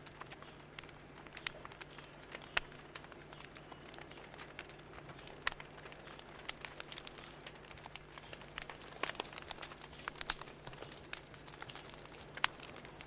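Fire crackling: irregular sharp pops and snaps over a faint steady hiss, with a low steady hum underneath.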